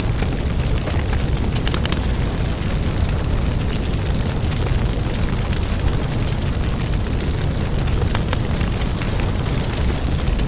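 Fire burning in a fireplace: a steady, heavy, low rush of flames with many sharp crackles and pops scattered through it.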